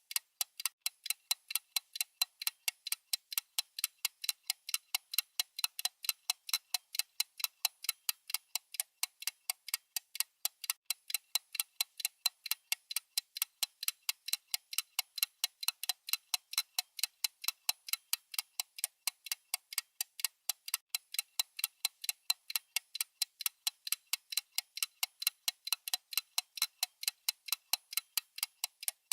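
Clock-style ticking sound effect: fast, even, sharp ticks that keep on without a break.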